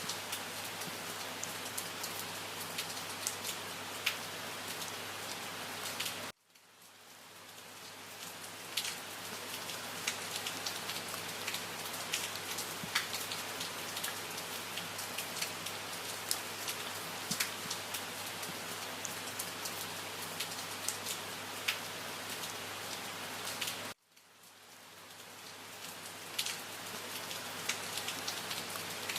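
Steady rain with many sharp individual drop hits. The sound cuts out suddenly twice, about six seconds in and near the end, and each time fades back up over a couple of seconds.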